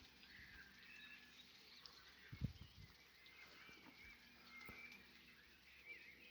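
Faint birdsong, short chirps scattered throughout, with one brief low thump about two and a half seconds in.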